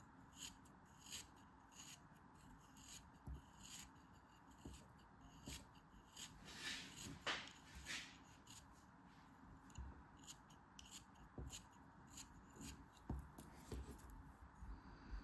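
Quiet unpacking sounds: scattered light rustles, taps and clicks of hands handling packaging, with a longer, louder crinkle about seven seconds in.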